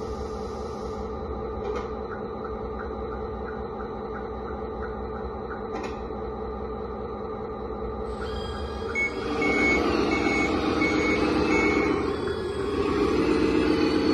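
Sound module of a 1/14 scale RC Volvo A40G articulated dump truck playing a simulated diesel engine, running steadily at first, then louder about nine seconds in with a run of about five reversing beeps as it backs up, and loud again near the end.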